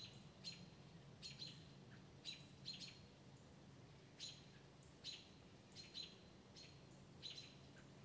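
Faint bird chirps outdoors: short high notes, about one or two a second, some in quick pairs, over a faint low steady hum.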